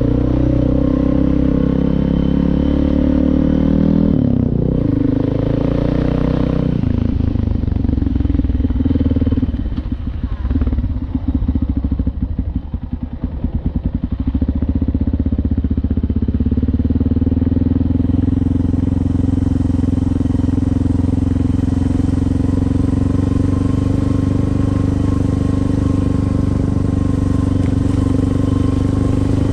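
Suzuki DR650's single-cylinder four-stroke engine running while riding. It eases off into a slower, pulsing beat for a few seconds around the middle, then holds a steady pitch.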